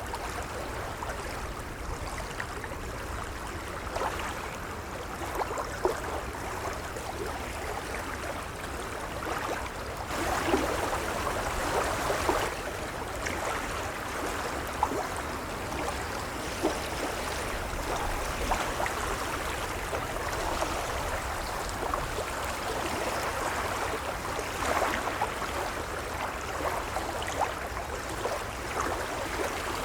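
Gentle waves lapping, with many small splashes and a low rumble; a bigger wave swells in about ten seconds in and subsides a couple of seconds later.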